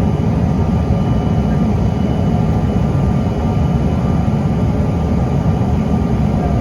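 Steady jet noise inside the cabin of a CRJ-900 regional jet: its rear-mounted GE CF34 turbofans running at high power with air rushing past the fuselage, a deep even rumble with a faint high whine over it.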